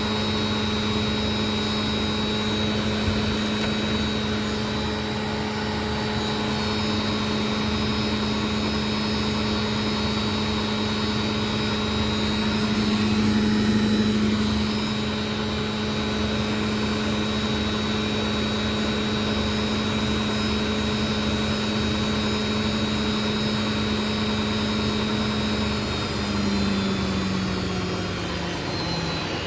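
Indesit washing machine on its spin cycle, the drum and motor running at a steady high speed with a constant motor hum and a high whine. Near the end the pitch starts to drop as the drum slows.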